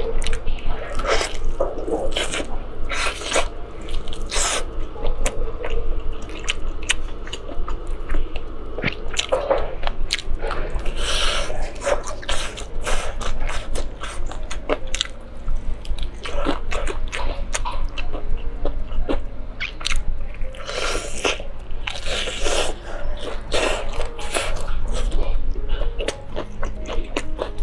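Close-miked eating of a fried chicken drumstick: bites into the crispy battered skin crunch and crackle, with chewing in between. The crunches come in clusters, with a few quieter chewing stretches between them.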